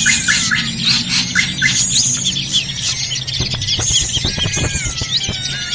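Bird-lure recording of drongos (srigunting) calling noisily. Rapid runs of chirps and short whistled glides repeat every couple of seconds, over a steady low hum.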